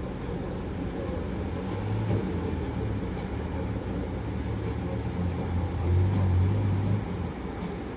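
A car's engine running low and steady as a taxi drives past below, growing louder to a peak about six seconds in, then dropping away.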